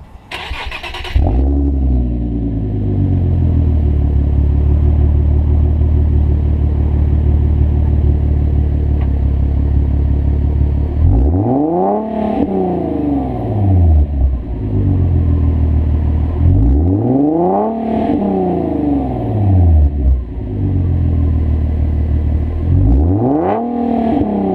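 Infiniti G37S's 3.7-litre VQ37 V6 warm-starting through a MotorDyne exhaust: a short crank, then it catches and settles into a steady idle. It is then revved three times, each rev rising and falling back to idle, about six seconds apart.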